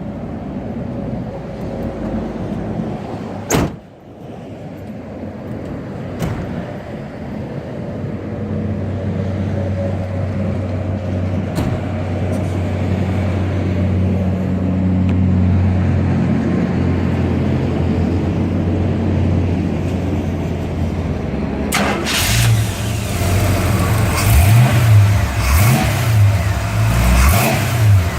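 1953 Chevrolet 210's engine running at a steady idle, then revved several times near the end, its pitch rising and falling with each blip. There is a sharp click a few seconds in and another just before the revving.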